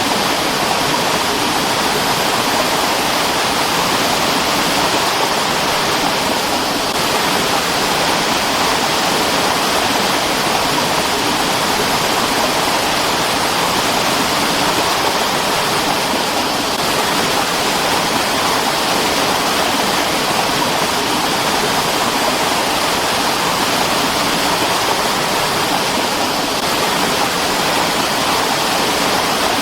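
Mountain stream water rushing over rocks, a steady full-bodied rush with no breaks.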